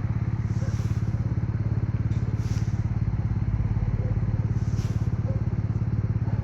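Motorcycle engine idling steadily, with a fast, even low pulsing.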